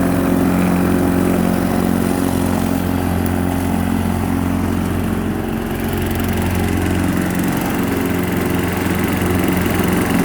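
A Craftsman push mower's single-cylinder Briggs & Stratton engine running steadily after being started on starting fluid. Its level dips slightly about halfway through, then recovers.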